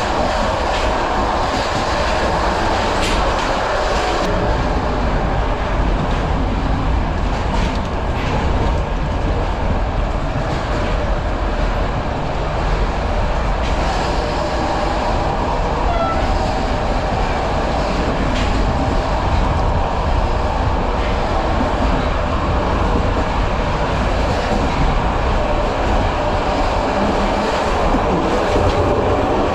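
BDZ passenger train running at speed, heard from on board: a steady rumble of wheels on the track with scattered clicks over the rail joints.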